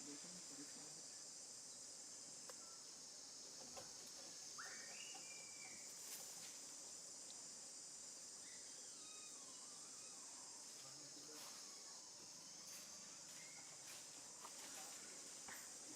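A steady, high-pitched chorus of insects, faint overall, with a short whistle-like call a little over four seconds in and a few faint clicks.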